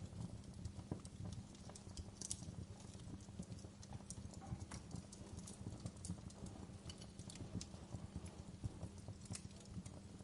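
Wood fire crackling in a fireplace: irregular pops and snaps from burning logs over a low, steady rumble of flames.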